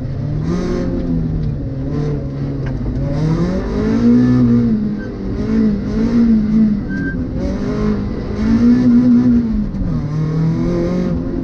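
Mazda MX-5 NC's four-cylinder engine being driven hard, its revs rising and falling several times as it accelerates and lifts off.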